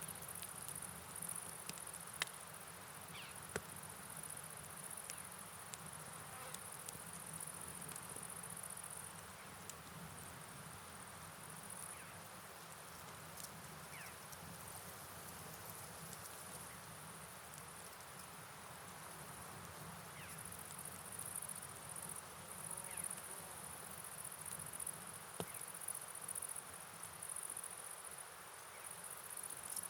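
Soft night rain and river ambience: an even hiss of rainfall and flowing water, scattered with light ticks. Over it runs a high, thin insect-like buzz that fades out about nine seconds in and returns about twenty seconds in.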